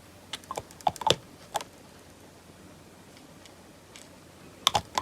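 Small hard-plastic clicks and taps from handling a vintage plastic action figure: a quick run of about seven in the first second and a half, then three more near the end.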